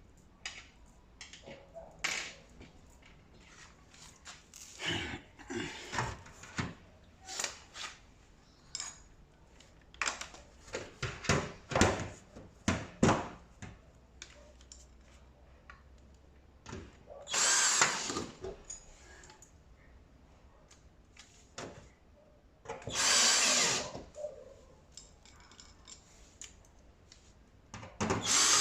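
Power drill running in three short bursts of about a second each, the kind of bursts used to drive screws. Before them come scattered knocks and clicks of parts being handled.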